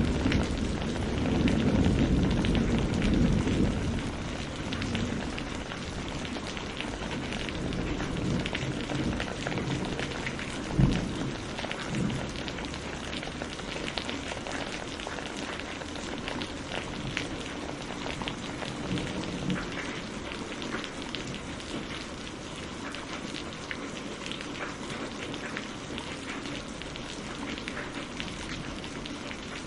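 Steady rain falling, heard as a dense even hiss dotted with individual drop hits. Distant thunder rumbles low over the first few seconds and dies away, and a sharp thump about eleven seconds in is followed by a smaller one a second later.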